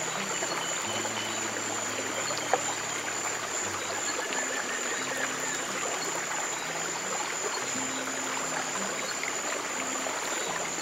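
Stream water flowing steadily, with faint low sustained music notes changing slowly underneath and a single small click about two and a half seconds in.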